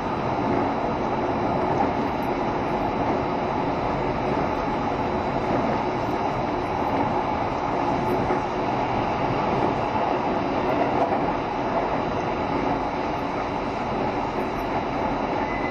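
Steady running noise heard inside a JR Shikoku 7200 series electric multiple unit: an even rumble of wheels on rail and car body noise.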